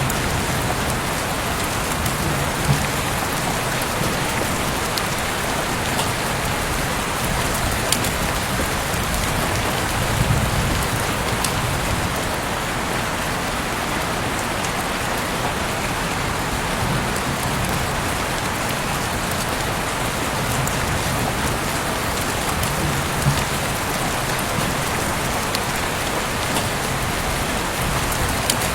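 Heavy rain falling steadily: a dense, even hiss of drops, with a few louder single drop hits standing out now and then.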